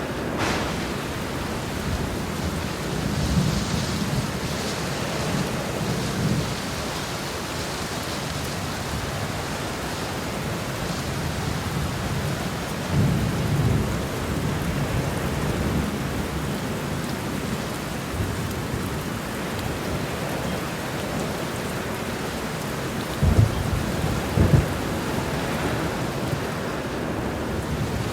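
Heavy rain with a steady hiss under a thunderstorm, with low rolls of thunder rising and fading twice. Two short, sharper thunder claps come about a second apart near the end.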